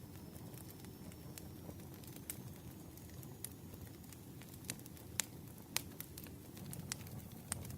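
Campfire crackling: a steady low hiss and rustle of burning wood with irregular sharp pops and snaps, a handful of them through the middle and later part.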